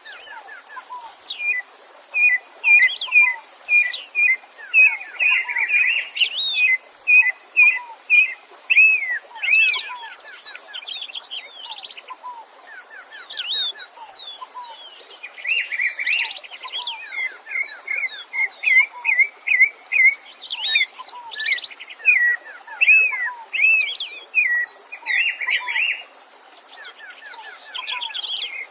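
Several songbirds singing over one another: fast runs of short repeated notes, a few long whistles sliding down from high pitch, and a soft low note repeating about every second and a half. Under them runs the faint steady rush of a stream.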